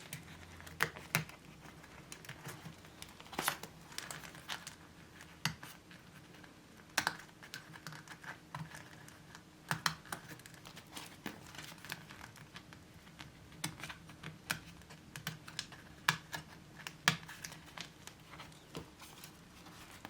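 Plastic zip cash wallets being handled and sorted into a binder: scattered, irregular light clicks and crinkles.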